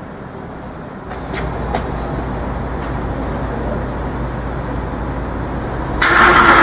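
Street traffic rumble with a few light clicks. Near the end the Mercedes SLS AMG's 6.2-litre V8 starts suddenly and very loudly on a cold start.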